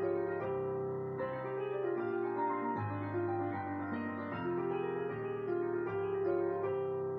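Piano music: sustained chords and a melody over held bass notes, played at a steady, unhurried pace.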